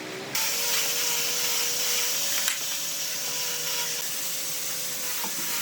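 An electric power tool running steadily, a constant hiss with a steady hum. It starts abruptly shortly after the start, and the hum drops out near the end.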